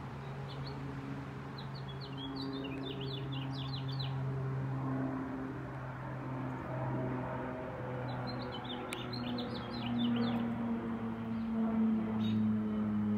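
A songbird sings two quick phrases of rapidly repeated high notes, the second about six seconds after the first. A steady low hum runs underneath and gets louder near the end.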